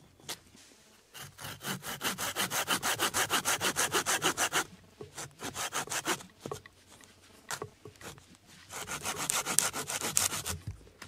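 Hand saw cutting through a wet log with quick, even back-and-forth strokes, in two runs with a pause and a few slower strokes between.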